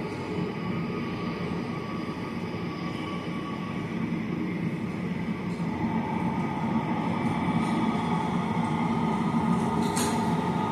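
Jet airliner engines running with a steady rumble and a few held tones, growing louder from about six seconds in; a single sharp click comes near the end.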